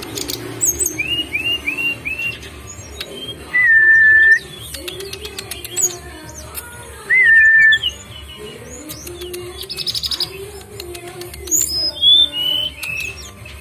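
Birdsong meant to goad a caged bird into singing: clear whistled calls, with a quick run of four short rising notes, two loud drawn-out whistles, and high chirps scattered throughout, over lower wavering tones.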